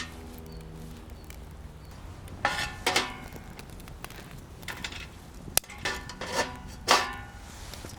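Metal camp cookware and utensils clinking: about half a dozen separate knocks, each with a brief metallic ring, in two clusters, one around a third of the way in and one past the middle.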